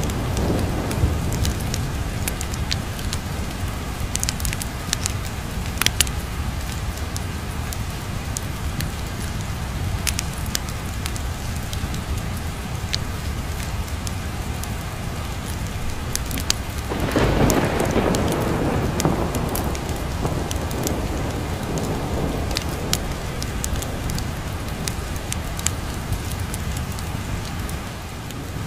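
Steady rain with low rolling thunder, and a louder roll of thunder swelling about two-thirds of the way in. Scattered sharp crackles run through it, like a wood fire crackling in a fireplace.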